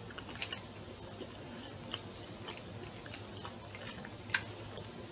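A person chewing food quietly with the mouth closed, with a few faint clicks, the sharpest a little after four seconds in.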